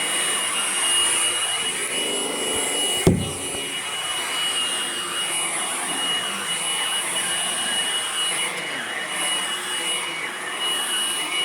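Hoover vacuum cleaner running steadily with a newly fitted brush roll, its motor noise carrying a thin steady high whine. A single sharp thump comes about three seconds in.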